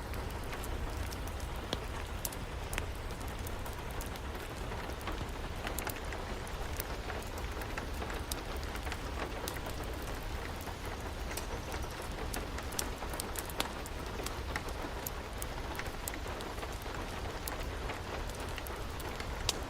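Steady rain with frequent sharp crackles and pops from a wood fire scattered through it.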